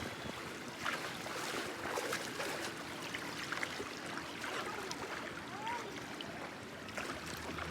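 Water trickling and splashing, with many small irregular splashes and clicks over a steady wash.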